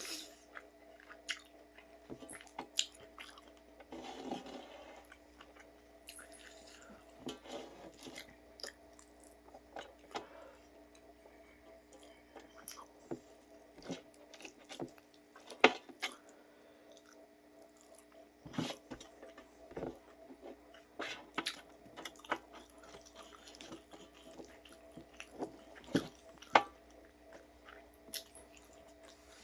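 Someone eating: irregular chewing, biting and small sharp clicks, with a few louder smacks. A steady hum runs underneath.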